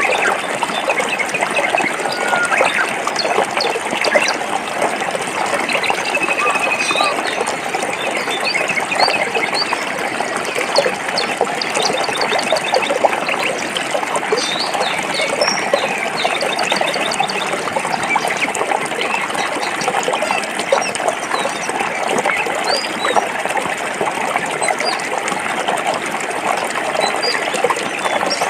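Stream water flowing and babbling over rocks in a steady splashing rush. Small birds chirp now and then above it, with a short trill about six seconds in and a quick run of ticks near the middle.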